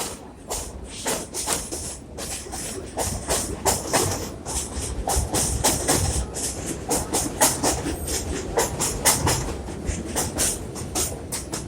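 R62A subway train running on the track, its wheels clattering in a fast, irregular run of clacks over a steady rumble.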